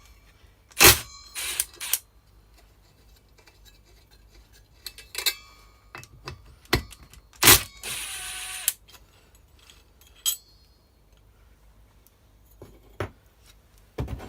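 Metal hand tools and small clutch parts clinking and knocking against each other and the bench while a brush cutter clutch is taken apart. Several sharp clinks ring briefly, and about eight seconds in there is a short scraping rattle.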